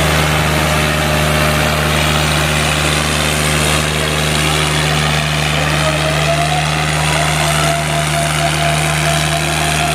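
Diesel tractor engines running loudly at a steady speed, an even, continuous drone, as the tractors strain against each other in a tug-of-war pull. A wavering higher tone joins about six seconds in.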